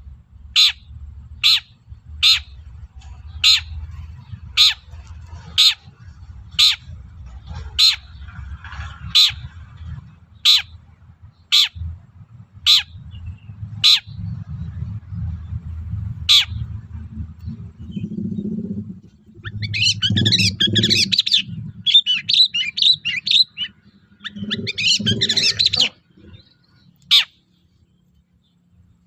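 Long-tailed shrike calling. It gives a sharp, falling note about once a second for roughly the first half, then breaks into two bouts of rapid chattering song. A low rumble runs underneath.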